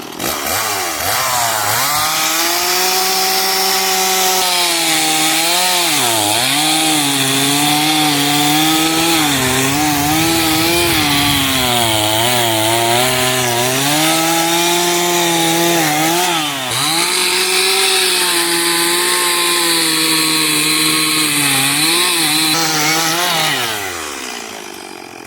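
Two-stroke chainsaw revving up and cutting into a wooden log while carving, the engine pitch dipping several times as the chain bogs down in the cut, then dropping back to idle near the end.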